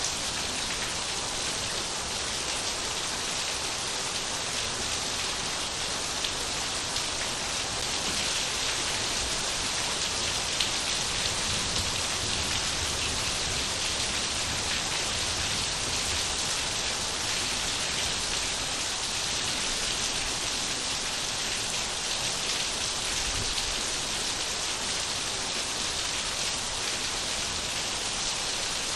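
Steady rain falling, an even hiss of many drops with a few louder individual drop hits.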